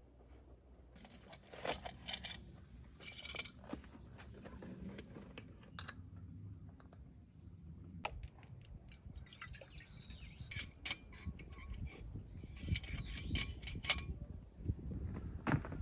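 Small hard objects being handled: scattered light clicks, clinks and rustles, busier in the second half.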